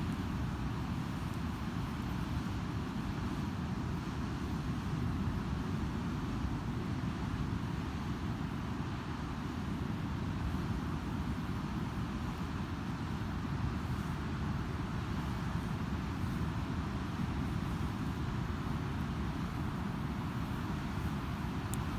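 Steady, unbroken roar of ocean surf breaking on a sandy beach, heavy in the low end, with a couple of faint crackles from a campfire.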